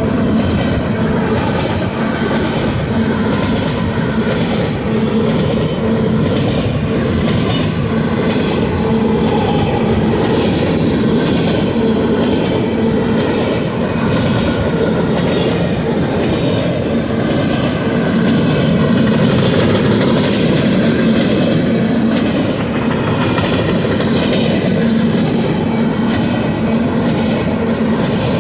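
Freight train rolling past, a steady clatter of wheels over the rail joints with a low steady hum underneath.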